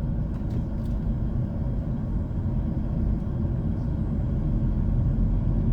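Steady low rumble of a car being driven: engine and road noise heard from inside the cabin.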